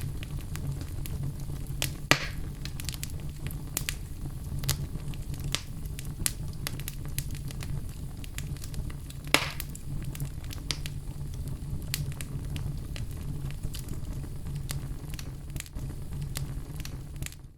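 Wood fire burning in a fireplace: a steady low rumble of flames with frequent small crackles, and two louder pops, about two seconds in and about nine seconds in.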